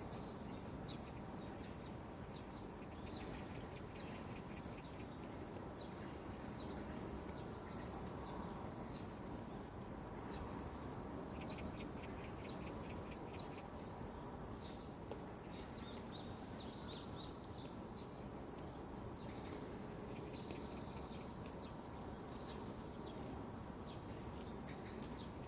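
Small birds chirping, with quick repeated high chirps over a steady low outdoor hiss.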